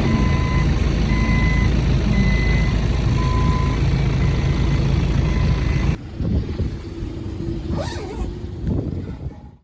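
A vehicle engine running with a reversing beeper sounding about once a second; the engine and beeping cut off abruptly about six seconds in, leaving quieter background noise.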